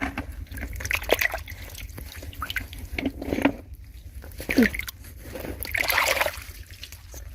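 Shallow ditch water splashing and sloshing in irregular bursts as someone wades and rummages through it, with a longer slosh about six seconds in.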